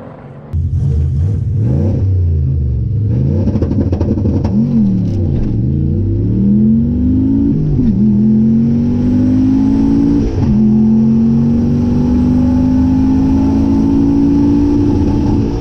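Turbocharged manual-transmission drag car launching hard and accelerating down a quarter-mile pass at full throttle. The engine note climbs steadily in pitch through each gear and drops sharply at each upshift, three times, then pulls in top gear.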